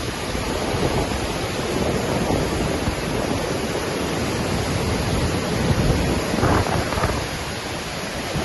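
Waterfall: a steady rush of falling water, with a low rumble that swells and eases.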